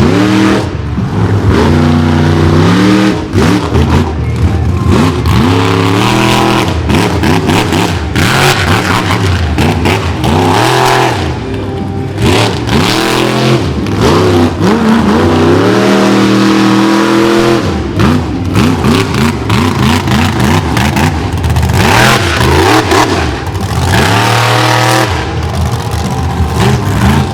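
Monster truck engine revving hard, its pitch climbing and falling again and again as the throttle is worked, with sharp crackles in between.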